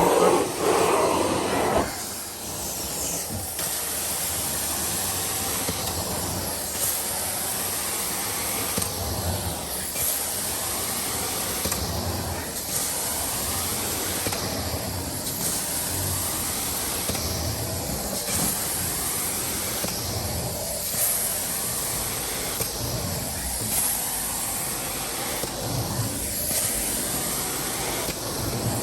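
Carpet extraction wand worked across a carpet in repeated strokes, its suction hissing steadily and swelling about once every three seconds with each pass.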